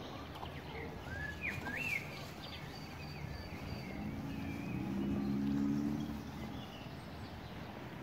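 Small songbirds chirping and singing in short rising and falling phrases over a steady outdoor background hum. About halfway through, a low pitched hum swells and fades over a couple of seconds and is the loudest sound.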